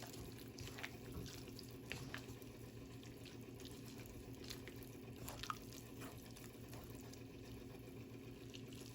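Faint liquid sounds from a pot of glass noodle and vegetable soup, with a few light clicks scattered through, over a low steady hum.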